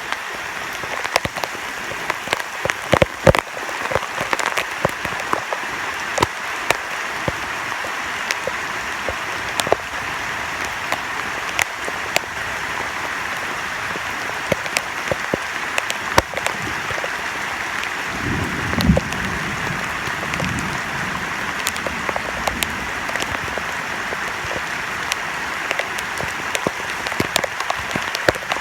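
Heavy rain falling steadily, a dense hiss broken by many sharp close drop hits, with rainwater running. A brief low rumble comes about two-thirds of the way through.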